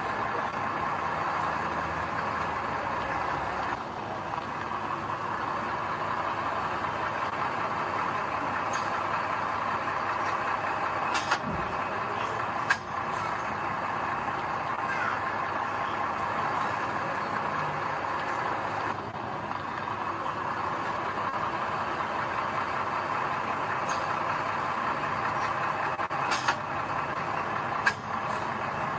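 Diesel engines of heavy earthmoving machinery running steadily, with a few brief, sharp knocks.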